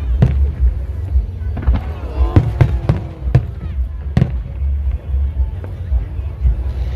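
Fireworks exploding in the sky: a dozen or so sharp bangs and cracks at irregular intervals, with music playing underneath.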